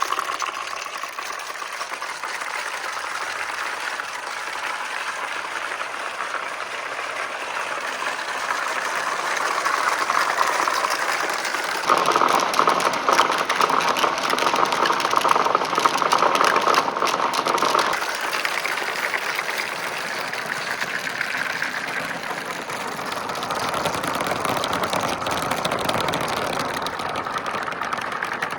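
Glass marbles rolling and clattering down the slopes of a marble run: a continuous rattle of many rapid small clicks. It grows louder for several seconds about midway, then eases again.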